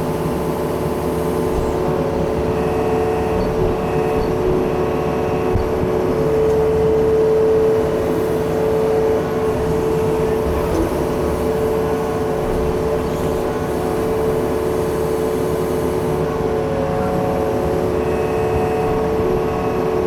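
Yanmar mini excavator's diesel engine running steadily under digging load, with a steady whine over the engine note that swells briefly about a third of the way in, as the 24-inch rake attachment digs into clay.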